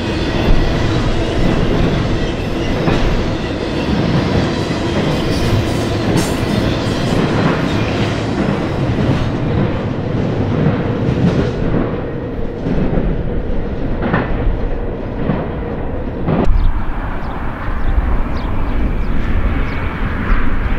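Intermodal freight train's container and trailer cars rolling past close by: a steady rumble with wheels clicking over the rails. About 16 seconds in it cuts off abruptly to a different, steadier low rumble.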